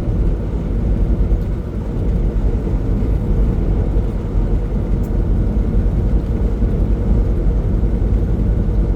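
Steady drone of a semi truck's engine and tyres heard from inside the cab while cruising on the highway, mostly low and even throughout.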